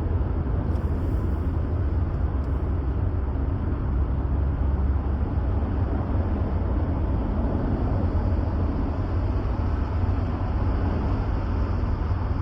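A car driving along at steady speed: an even, low rumble of engine and road noise with no distinct events.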